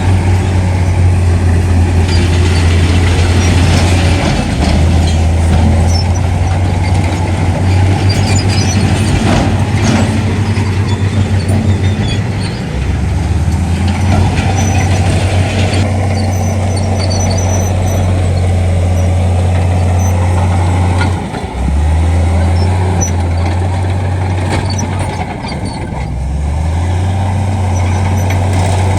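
Heavy diesel construction machinery running, a deep engine drone that drops and shifts in pitch a few times, with rattling clatter over it.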